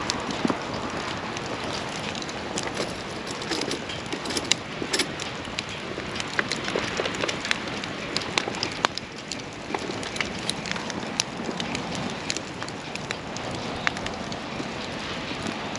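Wood campfire burning, with irregular sharp crackles and pops over a steady hiss.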